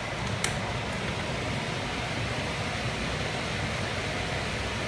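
Air handler running, a steady rush of air from its blower, with one sharp click about half a second in.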